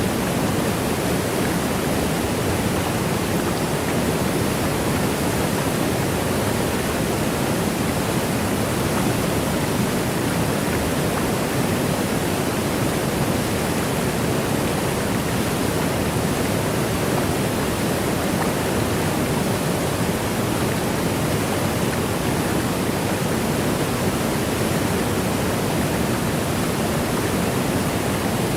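Steady rush of a waterfall, water cascading down in an unbroken, even roar of noise with no changes.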